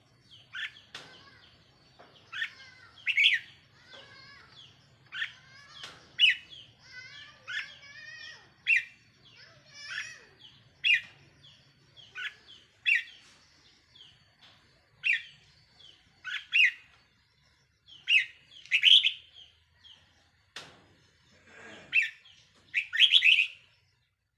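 Caged decoy red-whiskered bulbul singing short, bright, warbled phrases, about one a second, with a few sharp clicks between them.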